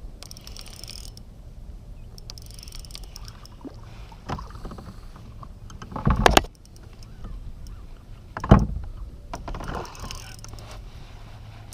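Handling sounds aboard a fishing kayak while a hooked fish is fought and brought in, with two loud thumps about two seconds apart, over a steady low hum.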